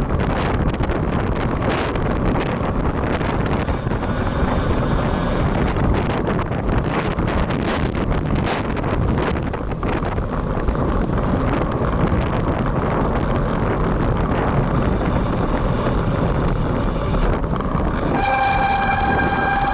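Wind buffeting the action camera's built-in microphone on a moving road bike, over tyre and traffic noise. Near the end a single steady horn tone sounds for about a second and a half.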